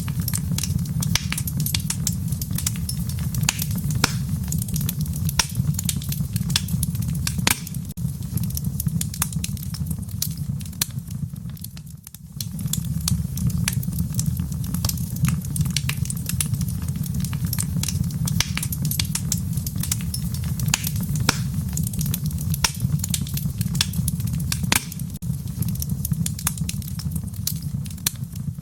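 Wood fire in a fireplace crackling, with many irregular sharp pops over a steady low rumble. The sound dips briefly about twelve seconds in.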